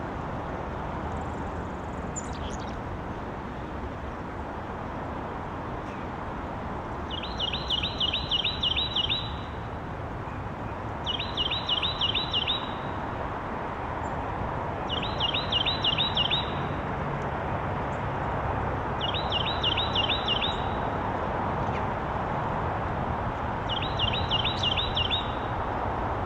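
A songbird singing the same short song five times, about every four seconds, each a quick run of about seven repeated notes lasting under two seconds, over a steady low background rumble.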